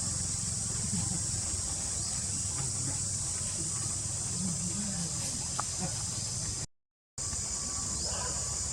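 Steady insect chorus, a high, even buzz, over a low rumble. The sound cuts out completely for about half a second near the end.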